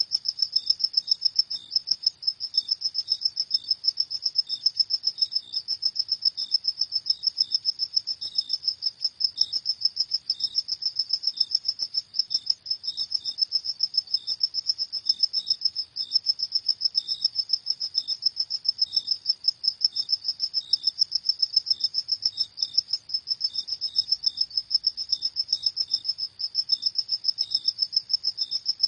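Crickets chirping: a high-pitched trill of rapid, even pulses that goes on without a break, with a second, fainter chirping just below it.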